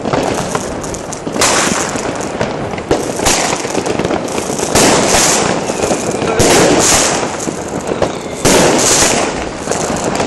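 Fireworks and firecrackers going off without a break: a dense crackle with louder bangs every second and a half to two seconds, five in all.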